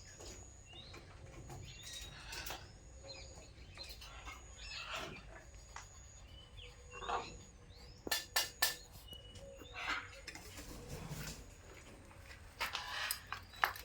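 Birds chirping and calling in short, scattered bursts, with a quick cluster of sharp clicks a little past the middle.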